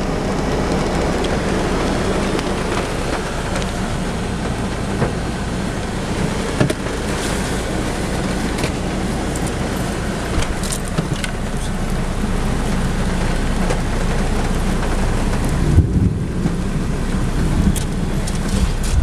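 Steady rain falling, with a constant low rumble underneath and scattered sharp taps of drops.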